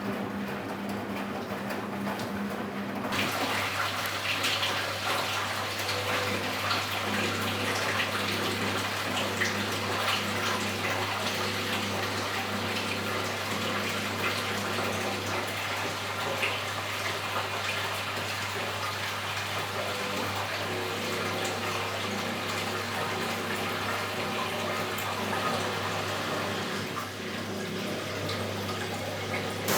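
Philco Bendix W84RX front-loading washing machine taking in water: about three seconds in the water starts rushing into the drum, with a steady low hum under it.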